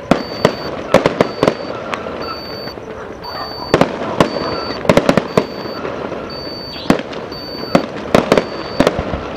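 Aerial fireworks bursting in irregular volleys of sharp bangs, several in quick succession, over a steady background noise.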